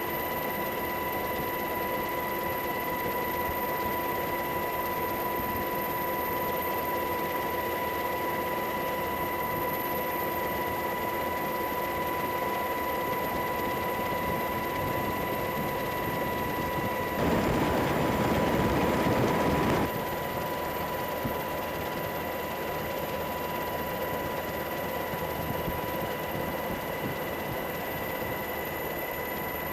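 Steady machine noise with several high, constant whining tones, swelling into a louder rush for about three seconds just past halfway.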